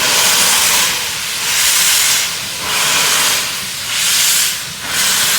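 BR Standard Class 4MT 2-6-4 tank locomotive moving slowly with its cylinder drain cocks open, steam hissing out in loud rhythmic bursts about once a second.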